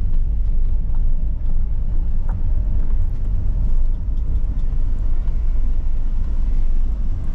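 Steady low rumble of a moving motor vehicle, with a faint steady whine.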